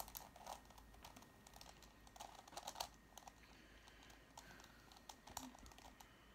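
Faint, irregular clicking of a Megaminx puzzle's faces being turned by hand, in short clusters of quick turns.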